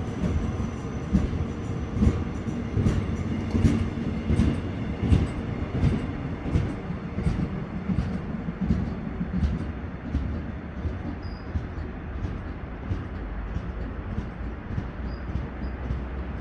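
Mugunghwa passenger train's wheels clacking over rail joints over a low rumble. The clacks come closer together as the train gathers speed pulling out, then grow fainter toward the end.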